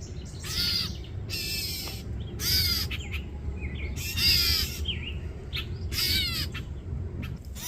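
Parent songbirds giving short, harsh calls about once a second, about six in all: scolding alarm calls from adults near their nest and fledgling.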